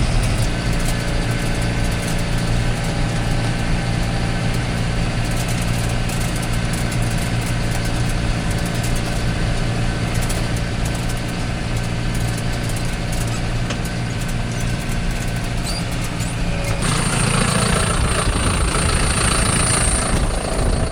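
Vehicle engine running steadily. About seventeen seconds in, a loud rushing hiss of wind noise suddenly joins it.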